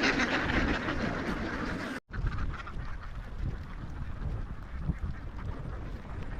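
A large flock of domestic ducks quacking together in a dense, continuous din. About two seconds in the sound cuts out for an instant and comes back quieter and thinner.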